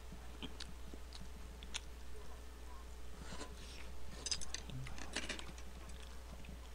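A man chewing a mouthful of rice and fried egg, with scattered small wet mouth clicks and smacks, a cluster of them about four to five seconds in. The sounds are quiet, over a steady low hum.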